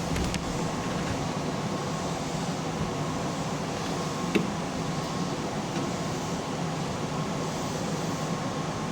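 Steady hum and rumble inside a Keihan Railway local train, with one sharp click about four and a half seconds in.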